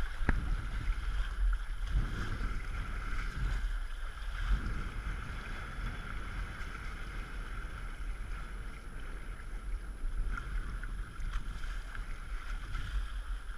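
Wind rumbling steadily on the microphone over the steady hiss of a small sailboat moving through the water.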